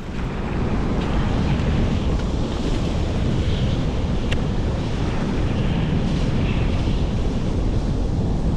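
Blizzard wind buffeting the microphone, a steady low rumble over the rush of the river's current.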